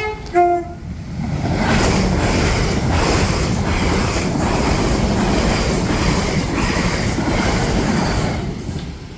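A South Western Railway train sounds the last short note of its two-tone horn, then runs past over the level crossing. Its wheels and rails make a loud, steady rush with regular clicks over the rail joints, which fades away near the end.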